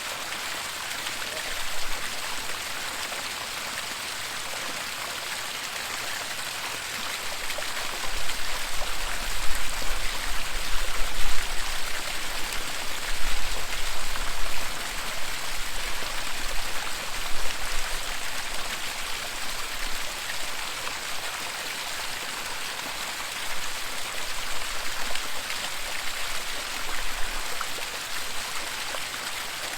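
Waterfall, a steady dense rush of falling water. A low, uneven rumble joins in about eight seconds in and goes on until near the end, bringing the loudest peaks.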